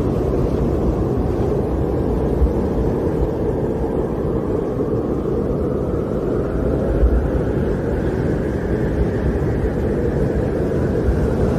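Snowstorm wind blowing hard and steadily, with a low rumble and a faint howl that rises and falls in pitch.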